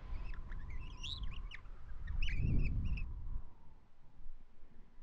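Small birds chirping faintly and intermittently, with a low rumble that swells and fades about halfway through.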